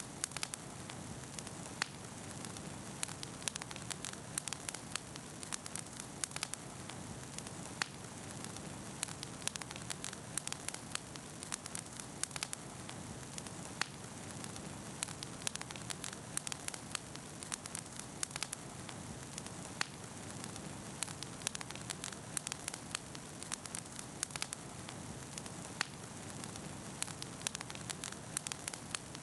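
Wood fire burning with frequent irregular crackles and pops over a steady hiss.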